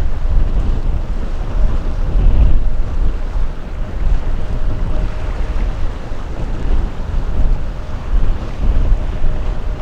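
Wind buffeting the microphone: a loud, gusting low rumble that rises and falls, with a faint steady hum running underneath.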